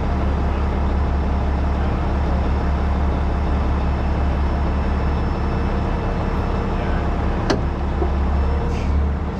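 Rotator tow truck's diesel engine running steadily with a low drone, and a single sharp click about seven and a half seconds in.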